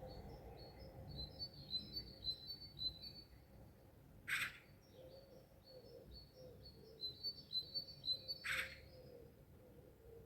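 Songbirds in the dawn chorus: a quick run of short, high chirping notes, sung twice, broken by two short, harsh, loud calls about four seconds apart. A faint steady hum lies underneath.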